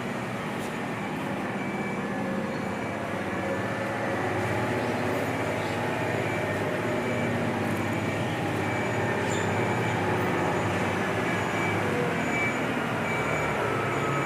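Volvo FM truck's diesel engine running steadily with a low drone and rolling noise, growing a little louder about four seconds in.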